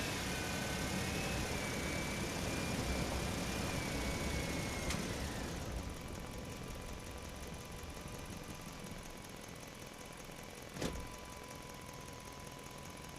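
A motor running steadily, with a high whine over it that stops about five and a half seconds in, and a single sharp click near the end.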